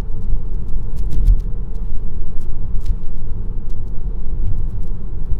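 Steady low road and tyre rumble heard inside a moving Tesla Model 3, an electric car with no engine note, with a few faint scattered ticks.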